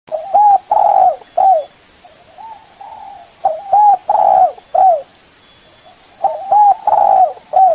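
Spotted dove cooing: three loud phrases about three seconds apart, each a few short rising-and-falling coos around one longer coo, with fainter coos between the phrases.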